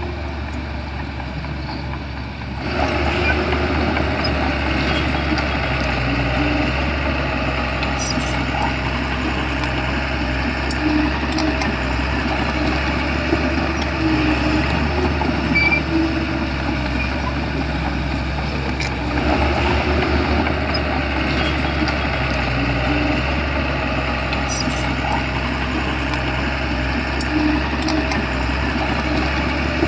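Shantui bulldozer's diesel engine running steadily, getting louder and busier about three seconds in and again near nineteen seconds, with a few faint clanks.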